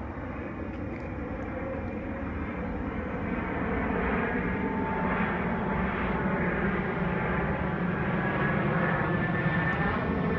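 Jet engines of an EVA Air Cargo Boeing 747-400 on approach to land, growing louder over the first few seconds, then holding at a steady level. The broad rumble carries whining tones that glide in pitch.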